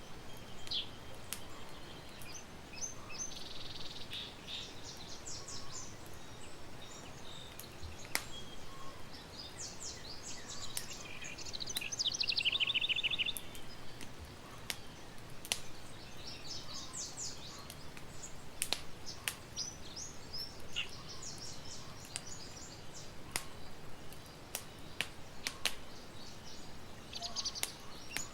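Birds chirping and singing in short phrases, with a fast trill about twelve seconds in. Scattered sharp pops and crackles of a campfire sit over a soft steady hiss.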